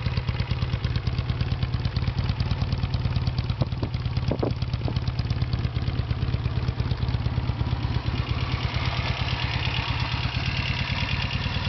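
Norton Commando's air-cooled parallel-twin engine idling steadily, with a little more mechanical clatter from about eight seconds in.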